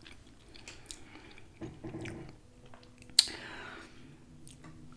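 Close-up chewing and mouth sounds of someone eating fried food, with small wet clicks throughout and one sharp crackle about three seconds in.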